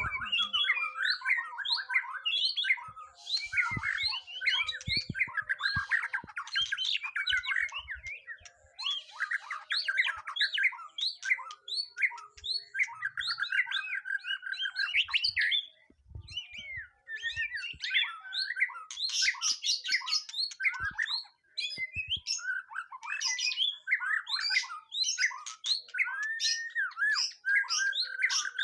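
White-rumped shama (murai batu) singing a fast, varied run of whistles, chirps and harsh notes with hardly a break.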